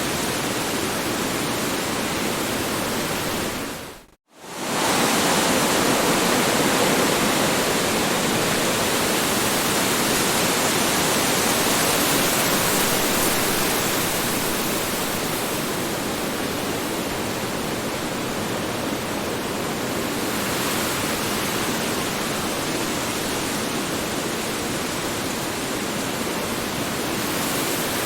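Strong wind blowing as a steady rushing noise. It cuts out abruptly for a split second about four seconds in, then returns a little louder.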